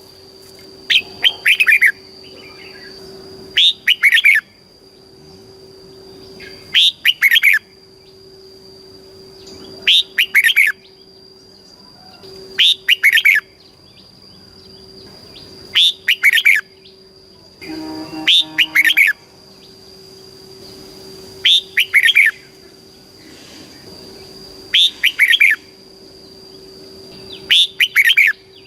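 Red-whiskered bulbul singing short, loud song phrases of quick falling whistled notes, one phrase about every three seconds. A steady high whine runs underneath.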